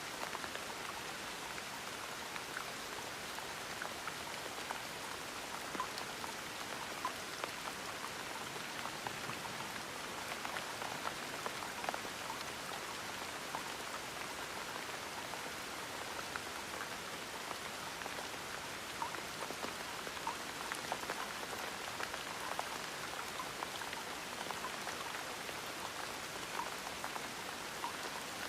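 Steady gentle rain: an even hiss with many individual drops pattering on a surface.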